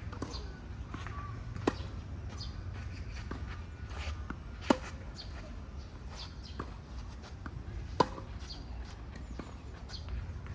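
Tennis rally: sharp racket-on-ball hits, three loud ones about three seconds apart with fainter hits and ball bounces between, over a steady low outdoor rumble.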